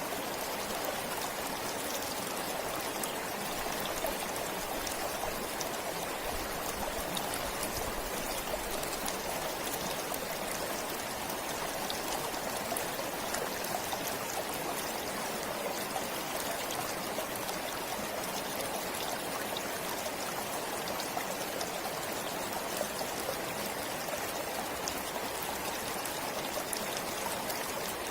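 Stream flowing steadily: an even, continuous rush of water with scattered small splashes.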